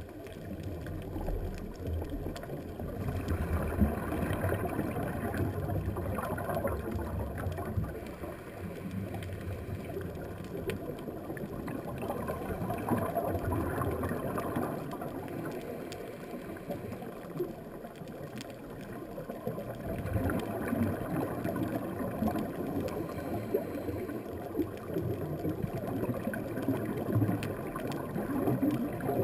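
Underwater sound picked up inside a camera housing: gurgling and bubbling from a scuba diver's exhaled air, swelling and fading every few seconds with the breathing. Faint scattered clicks sound over it.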